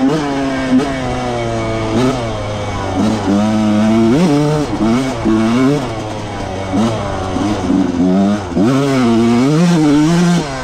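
1995 Yamaha YZ125's single-cylinder two-stroke engine being ridden hard on a motocross track, its pitch climbing and dropping again and again as the throttle is worked. The rpm is kept high because the bike is slow unless it is made to scream.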